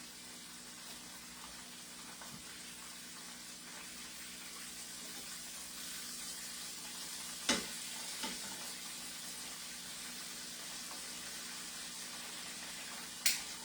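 Battered chicken pieces frying in hot canola oil, a steady sizzle. There are a few sharp clicks, twice around the middle and once near the end.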